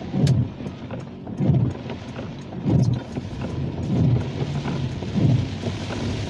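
Rain pattering on a car, with many sharp drop ticks, while the windscreen wipers sweep about once every 1.2 seconds, each stroke a low thump and swish.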